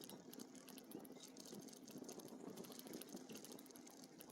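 Faint rolling noise of e-bike tyres on a dirt trail, with a steady patter of small ticks and crackles.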